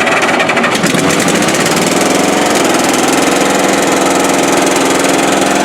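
The pony engine (small starting engine) of a Caterpillar air compressor running, its pitch rising as it comes up to speed over the first couple of seconds, then running steadily.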